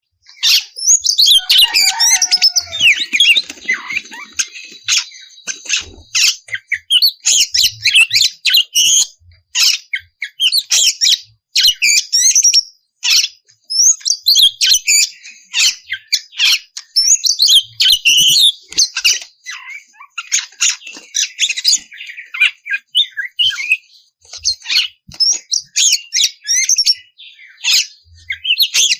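Oriental magpie-robin (kacer) singing loudly and without pause: a rapid, varied string of short chirps and whistled glides, starting suddenly.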